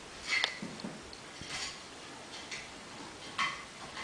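A few faint, light clicks and taps, about half a second in, again near the middle and once more near the end: a cat's claws and paws shifting on the top rail of a wooden chair as it balances there.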